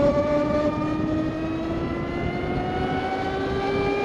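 Harley-Davidson LiveWire electric motorcycle's motor and drive whine, rising slowly in pitch as the bike picks up speed, with wind rushing over the microphone.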